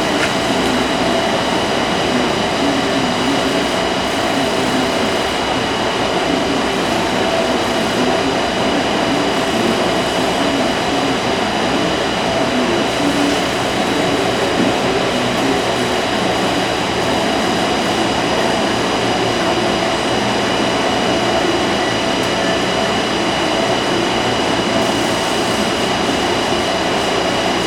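Built-in operator lift on a John Deere tractor running as its platform rises, a steady motor whine with constant tones over an even hum, unchanging throughout.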